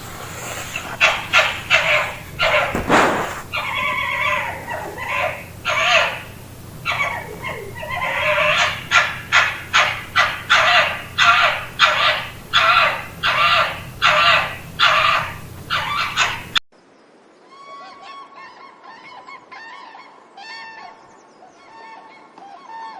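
Birds calling: loud, harsh calls repeated about once or twice a second. About two-thirds of the way through, a cut switches to a quieter flock giving short, honking calls.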